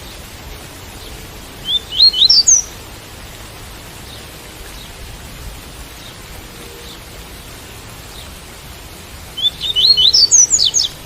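Double-collared seedeater (coleiro) singing its 'tui-tui' song: two short phrases of quick notes climbing in pitch, about two seconds in and again near the end. A steady hiss of rain runs underneath.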